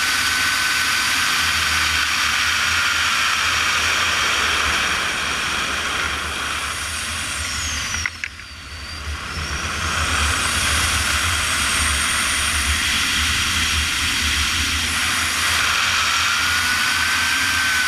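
Airflow rushing past a glider's cockpit in flight: a steady hiss with a faint whistle. About halfway through, the rush fades and the whistle slides down in pitch, then both build back up again, rising and falling with the glider's airspeed.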